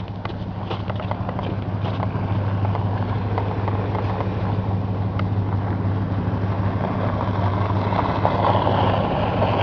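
A motor vehicle engine runs steadily with a low hum, its rumble growing louder toward the end as it comes closer. There are a few light crunching steps in snow in the first couple of seconds.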